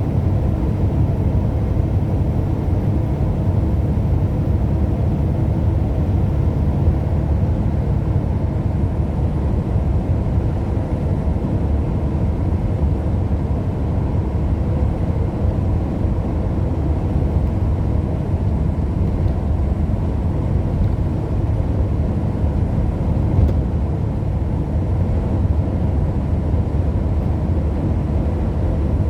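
A car being driven: a steady low rumble of road and engine noise that holds constant throughout.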